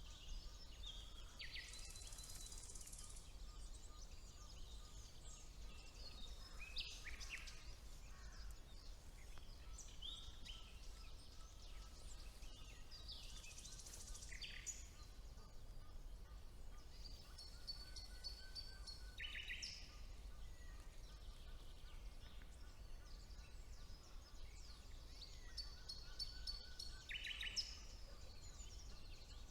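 Songbirds singing in a spring forest: short, varied phrases and quick trills every few seconds, over a low, steady background rumble.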